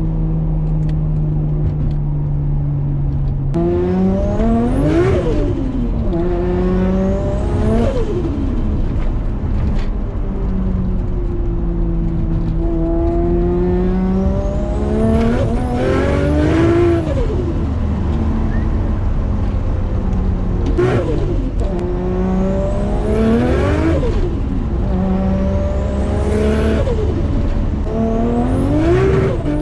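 Nissan Skyline R33's built, turbocharged RB25DET straight-six holding a steady note, then revved up and down about seven times under boost. Each pull carries a high rising turbo whistle. With no blow-off valve and a screamer pipe fitted, the turbo flutters as the throttle is lifted.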